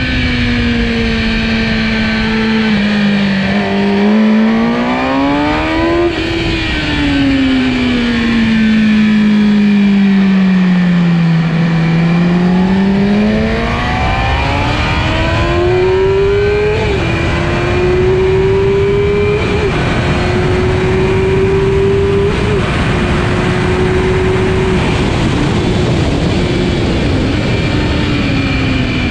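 Kawasaki ZX-10R superbike's inline-four engine at racing speed: revs fall and rise twice, then climb through the gears with three quick upshifts in the second half, each a sudden drop in pitch, before falling again near the end.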